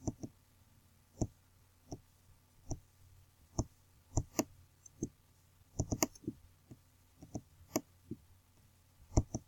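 Computer mouse clicking while zooming in on a photo: short sharp clicks at irregular intervals, about two a second, some in quick pairs.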